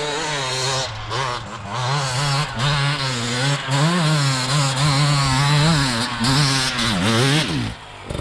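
Dirt bike engine running under changing throttle while riding, its pitch wavering up and down, with a quick dip and rise in revs near the end before it drops away.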